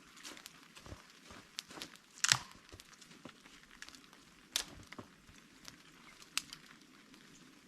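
Scattered crinkling and clicking handling sounds, with a few sharper crackles; the loudest comes about two seconds in.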